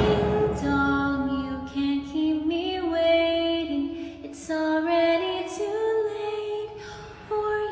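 A woman singing a slow melody in long held notes, as a deep boom fades at the start.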